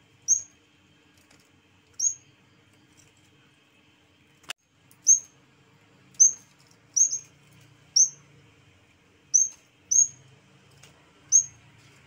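Caged yellow-bellied warbler (cikrak bambu) calling: about ten short, high chirps, each a quick note sliding down in pitch, spaced a second or so apart, two of them in quick succession near the middle. A single sharp click about four and a half seconds in.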